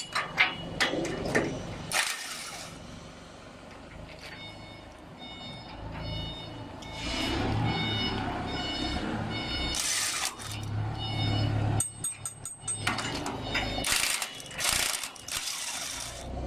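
Industrial machinery running during a mold change: a warning beeper sounds about twice a second for several seconds, with short hissing blasts and a few clicks over a low motor hum.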